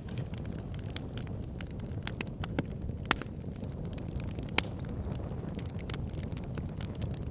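Wood fire burning in a fireplace: a steady low rumble of flame with irregular crackles and snaps from the logs, two of them louder pops about three and four and a half seconds in.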